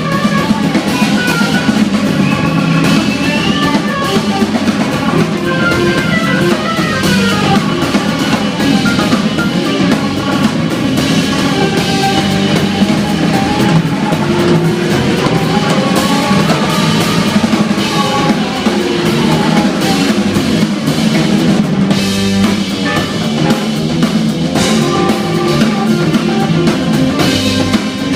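Live instrumental jazz-rock from a trio of keyboards, bass guitar and drum kit. The drums play busily under shifting keyboard lines, loud and unbroken.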